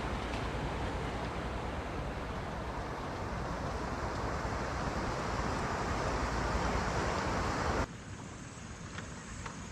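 A steady rushing noise that cuts off abruptly about eight seconds in, leaving a quieter background with faint scattered clicks.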